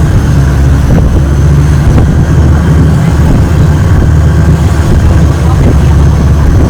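Longtail boat engine running loud and steady.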